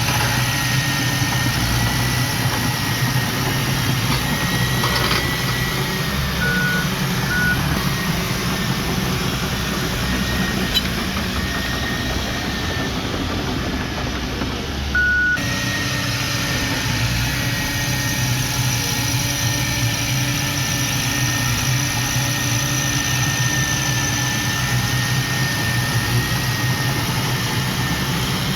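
Heavy earthmoving machine's engine running steadily, with a thin high whine over it. There are a few short beeps: two close together about seven seconds in and one about fifteen seconds in.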